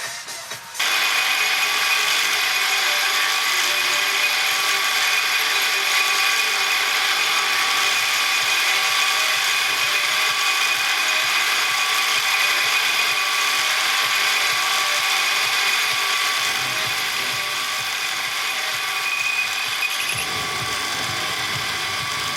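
Workshop metal lathe running steadily with a geared whine and rattle while a bushing is machined. It starts about a second in.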